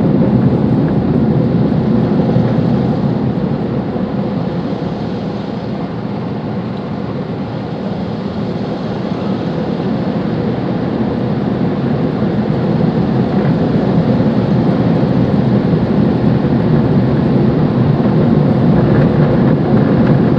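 Automatic car wash machinery heard from inside the car: a loud, steady rushing of water jets and air on the body. It eases slightly partway through, then builds again, like being in the middle of a tornado.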